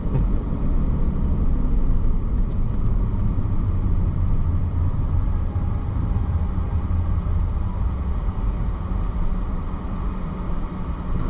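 Steady low road rumble of a car being driven, heard from inside the cabin: engine and tyre noise with no sharp events, easing slightly near the end.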